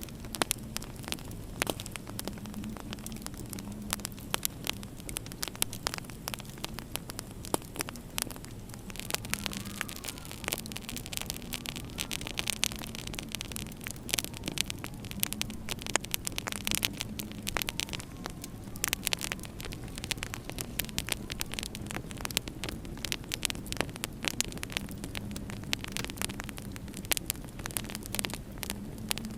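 Wood fire crackling in a fireplace, with many sharp pops and snaps over a steady low hum.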